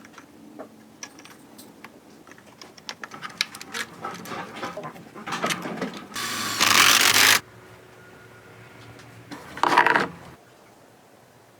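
Scattered light metallic clicks and clinks, then a loud rushing hiss lasting about a second, six seconds in, and a shorter loud burst near the end.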